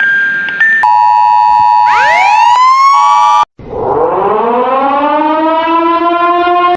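Emergency alarm sounds spliced one after another. A brief chime melody gives way to a steady two-tone alert tone, and a siren sweeps up in pitch over it. After a sudden cut, a siren winds up from low to high and levels off.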